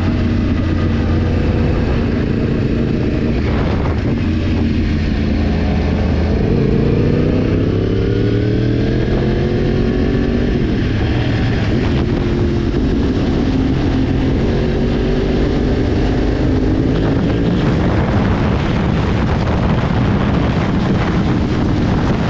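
Yamaha sport motorcycle engine running while under way, its pitch climbing for several seconds mid-way as the revs rise, then holding steady.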